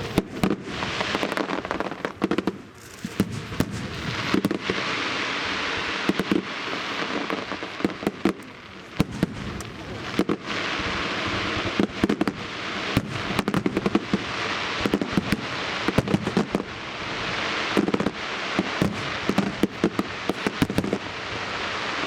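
Aerial fireworks display: many shells bursting in quick succession with sharp bangs, over dense crackling and hissing from the burning stars. The barrage swells and fades in waves every few seconds.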